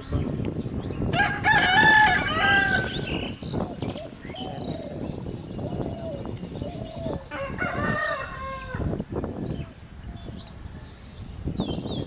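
Bird calls: a long call of a few drawn-out pitched notes about a second in, a run of shorter arched notes, then a second long call later on, over a steady low rumble.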